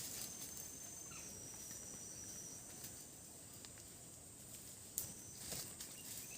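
Insects in the forest trilling steadily in a thin, high-pitched drone, with a couple of faint knocks about five seconds in.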